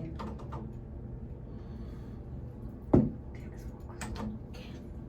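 Small clicks and taps from handling a new Moen shower head on the shower arm, with one sharp knock about three seconds in.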